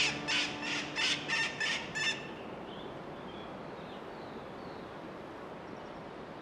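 A bird calls repeatedly, about three short sharp calls a second, while the last held note of background music fades; the calls stop about two seconds in. A steady outdoor hiss follows, with a few faint distant chirps.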